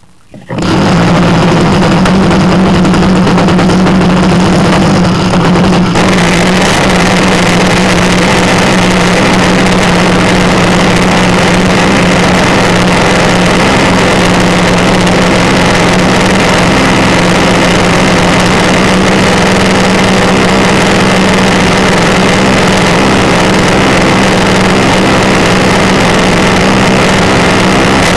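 RC model airplane's engine running steadily at one speed, very loud and close. It starts about a second in.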